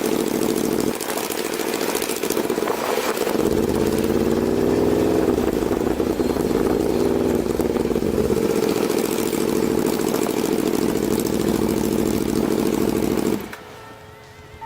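Motorcycle engine running steadily over a constant hiss, its pitch rising a little about four to five seconds in. It cuts off suddenly near the end.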